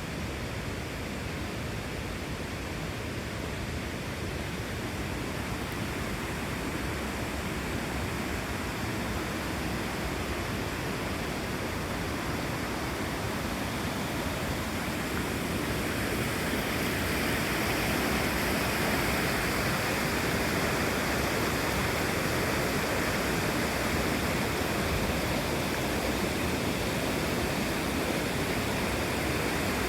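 Steady rush of falling water from Torc Waterfall, growing louder a little past halfway through.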